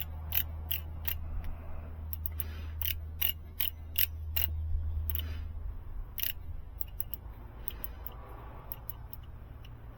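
Ratchet of a torque wrench clicking in quick, even strokes, about three a second, as jake brake housing bolts are pulled down to 80 ft-lb on the second torque pass; the clicks thin out in the second half. A low steady hum underneath stops about halfway through.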